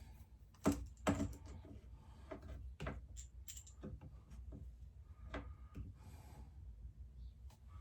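Small parts and tools being handled: a string of light clicks and taps, with two sharper knocks about a second in.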